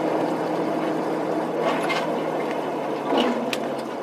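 Steady engine hum and road noise of a moving vehicle heard from a dashcam, with a brief louder patch and a sharp click about three seconds in.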